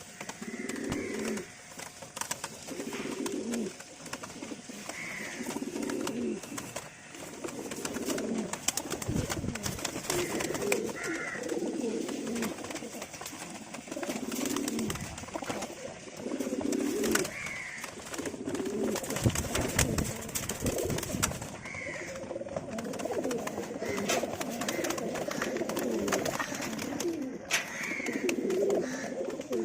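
Several domestic fancy pigeons cooing over and over, the low rolling calls following one another every second or two, with a faint higher chirp every few seconds.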